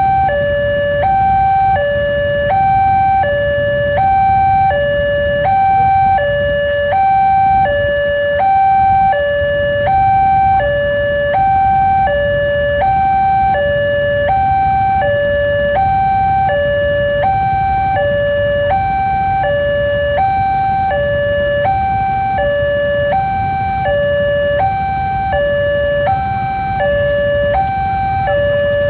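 Railway level-crossing warning alarm sounding a steady hi-lo two-tone signal, each tone lasting about two-thirds of a second, the sign that a train is about to pass. A low rumble runs beneath it.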